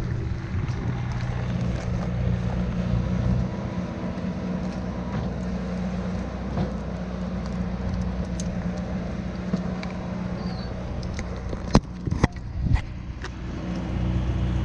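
An engine running steadily with a low hum, with three or four sharp knocks close together near the end.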